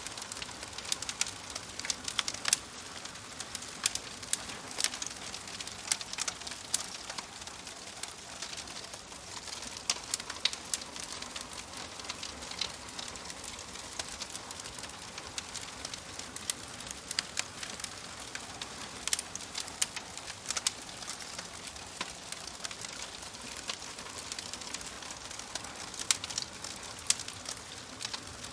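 Wood fire crackling in a fireplace: irregular sharp pops and snaps, several a second, over a steady hiss.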